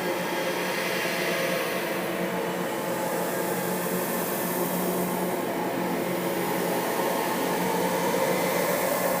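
Eerie droning sound-effect ambience: a steady dense rushing noise over a low hum, with a hiss that swells and fades every few seconds.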